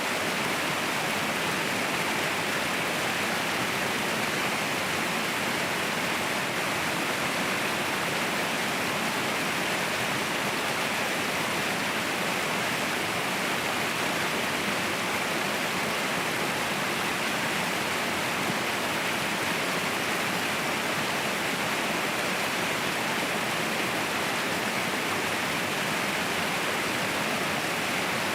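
Waterfall: water falling and rushing in a steady, unbroken hiss with no change in level.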